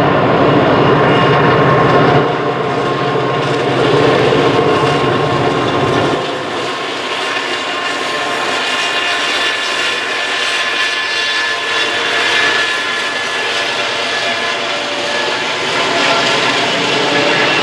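Diesel locomotives of a loaded coal train passing close by: a heavy engine rumble that drops off about six seconds in, then the steady rolling noise of steel wheels on rail as the coal cars go by, with a thin high wheel squeal.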